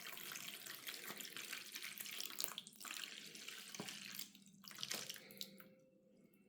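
Water being poured into a model's shallow basin, a steady pouring splash that stops about four and a half seconds in, with a brief trickle after.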